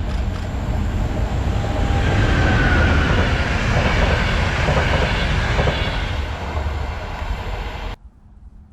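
Train passing on the track, its rumble and wheel noise swelling to a peak and then fading a little, before the sound cuts off abruptly near the end.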